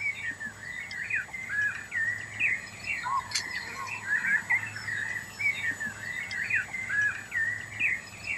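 Birds chirping: a dense run of many short, overlapping calls and quick whistled notes.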